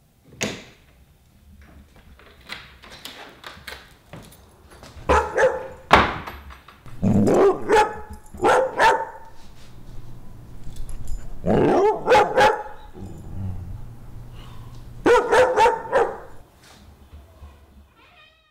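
A dog barking, in short groups of one or two barks a few seconds apart, after a single sharp click at the start.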